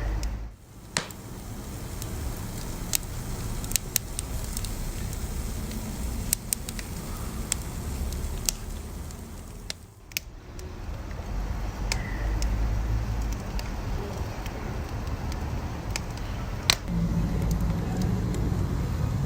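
Wood fire burning, with irregular sharp crackles and pops over a low rumble of flame. The loudest pop comes a few seconds before the end, and the sound dips briefly twice.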